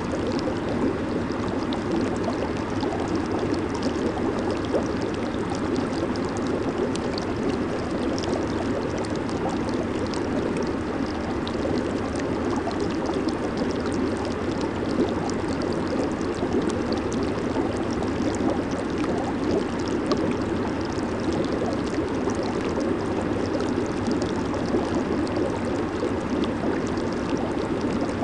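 Hot tub water churning and bubbling steadily from its jets, a constant rushing, gurgling wash with fine fizzing bubbles on top.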